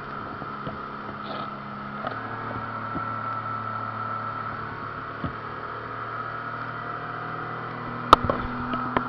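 Boat engine running steadily with a droning hum that changes note about two seconds in. A sharp knock comes near the end.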